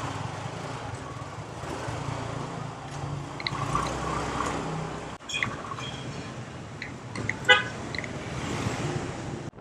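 Motorbike engine running through city street traffic, with several short horn beeps from the surrounding traffic, the clearest about three quarters of the way through.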